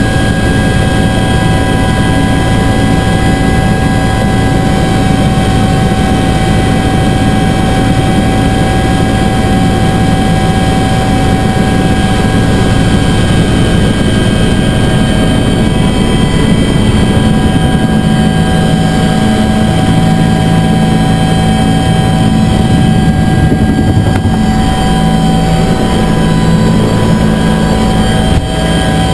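UH-1 Huey helicopter's turbine engine and rotor running loud and steady, with a steady turbine whine over the rotor noise; the low rotor tones shift in pitch about halfway through.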